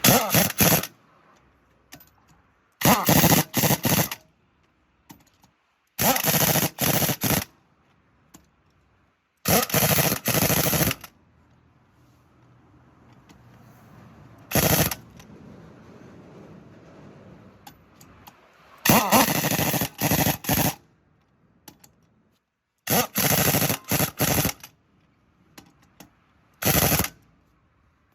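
Impact wrench hammering on the truck's wheel nuts in repeated bursts of a second or two, each often broken into several quick pulls, with quiet pauses between as it moves from nut to nut.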